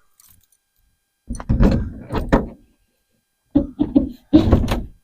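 Storage container lids being worked open: two bursts of clunks and creaks from the latches and lids.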